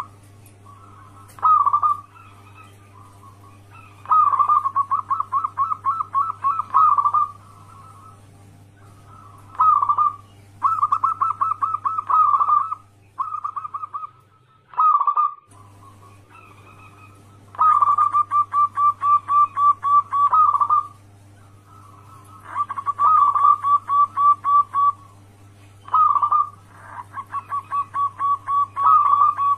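Zebra dove (perkutut) singing: repeated bouts of quick, evenly spaced cooing notes, each run lasting one to three seconds with short pauses between. A steady low hum lies underneath and cuts out briefly about halfway through.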